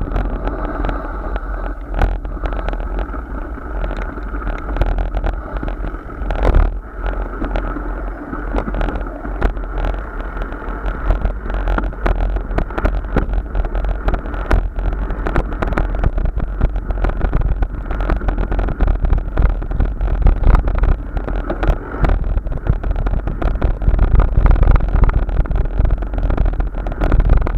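Steady rushing noise of a moving ride, with heavy low rumble from wind on the microphone and frequent small knocks and rattles throughout.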